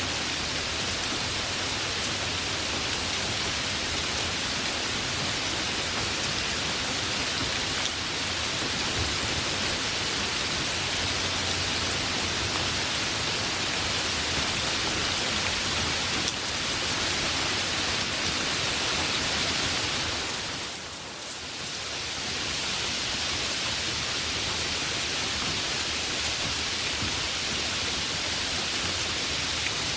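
Heavy rain falling steadily, a dense even hiss, with a brief dip in loudness about two-thirds of the way through.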